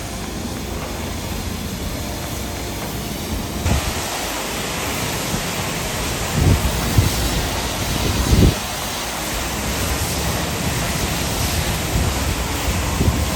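Steady rushing noise of wind on the microphone, with a few low buffeting thumps from gusts around the middle.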